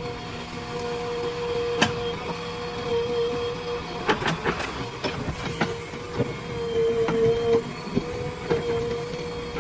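Backhoe loader working: a steady mechanical whine with scattered knocks and clanks, several of them coming close together about four to five seconds in.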